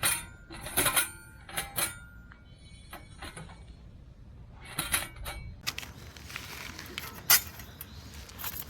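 Thin metal pieces of a wood stove clinking and clattering as they are handled, several knocks with a short metallic ring after them; a rustling stretch later and one sharp clack.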